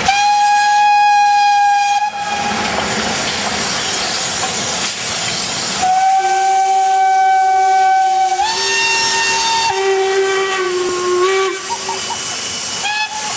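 Steam locomotive whistles blowing: a two-second blast, then steam hissing, then a long sounding of two whistles at once, one high and one low, whose pitches step up and down, and a short toot near the end.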